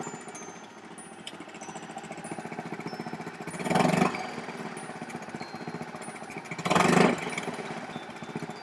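Honda 2.3 HP four-stroke single-cylinder outboard motor running at idle, with two brief louder surges about four and seven seconds in. The idle reads about 3,000 rpm on a clip-on tachometer against a factory spec of 2,000.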